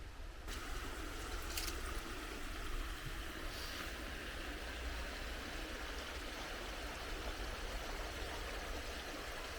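Water of a small stream running and rippling over stones, a steady rush that comes in about half a second in.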